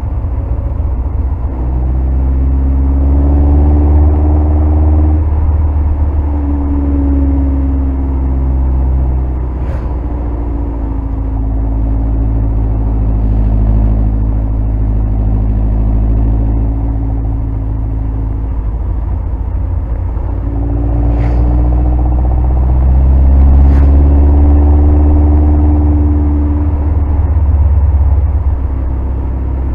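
Open-cockpit kit car's engine running on a downhill road, its note rising and falling several times as it accelerates and eases off. Heavy low rumble of wind and road noise throughout, with a few short clicks.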